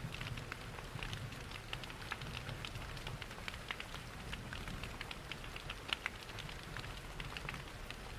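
Layered rain and fireplace ambience: a steady rain wash with many scattered sharp ticks of raindrops and crackling fire, over a low steady rush. One louder pop about six seconds in.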